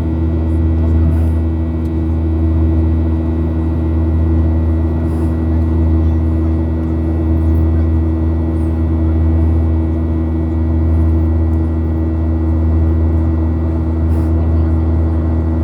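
Steady drone inside a jet airliner's cabin in flight, engines and airflow with a strong low hum and a few steady tones above it.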